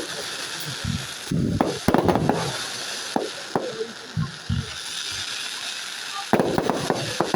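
Fireworks display: clusters of sharp bangs and crackles from bursting shells, over a steady hiss. One burst of reports comes about a second and a half in and a denser one near the end.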